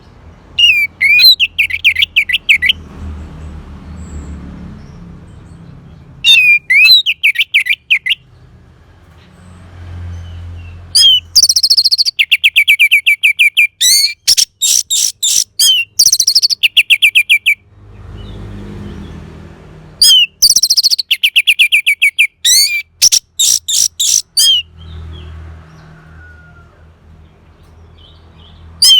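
Orange-headed thrush (anis merah) singing loud phrases of rapid, repeated, sweeping whistled notes, each burst lasting about two to six seconds with short pauses between. A faint low hum lies underneath.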